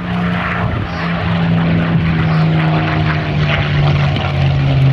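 Supermarine Spitfire's V12 piston engine and propeller running in a flypast, growing louder with the engine note slowly falling in pitch as it passes.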